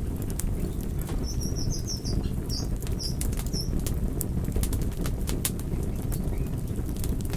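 Campfire burning with a steady low rumble and frequent sharp crackles and pops. A run of short high chirps sounds about a second in and stops before the four-second mark.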